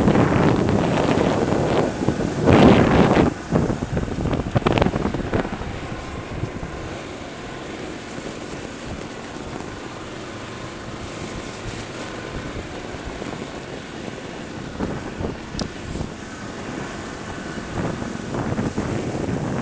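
Land Rover Discovery 2's Td5 five-cylinder turbodiesel pulling through wet snow on mud-terrain tyres, with wind on the microphone. Loud for the first few seconds, then falling to a steady lower level and rising again near the end.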